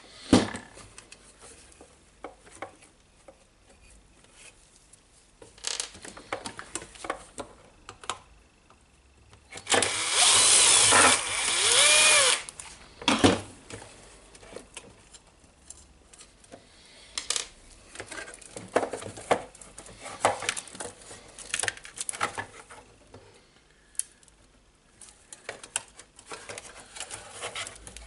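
Cordless drill-driver run for about two seconds, about ten seconds in, its pitch sliding as it speeds and slows on a glued screw. Light clicks and knocks of plastic parts being handled come before and after.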